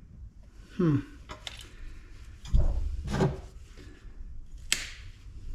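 Scattered knocks and clunks from a scrap light fixture's housing being handled and worked apart: a heavy low thump about halfway through and a sharp click near the end. There are also a couple of short sounds that fall in pitch, about a second in and after the thump.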